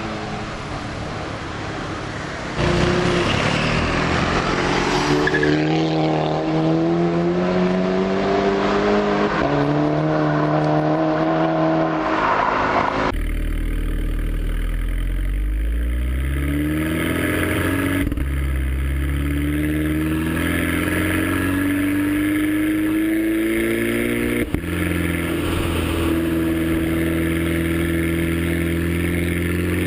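Audi A3 2.0 TSI turbocharged four-cylinder with an APR K04 turbo upgrade accelerating hard through the gears: the engine note climbs in pitch, drops back at each upshift, then climbs again.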